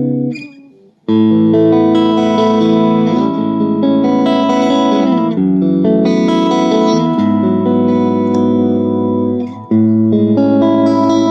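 Aiersi ST11 Custom HSS electric guitar playing ringing chords; the sound dies away just after the start, a new chord is struck about a second in, and another fresh chord comes near the end.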